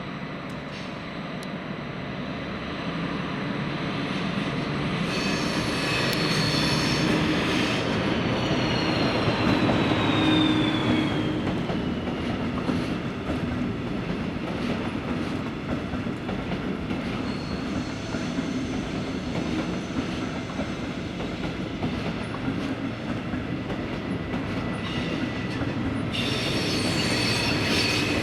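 Passenger train moving slowly over the station tracks, wheels clicking over the rail joints and points and squealing on the curves. It grows louder over the first ten seconds, with squeals about six seconds in and again near the end, and a high whine falling in pitch in between.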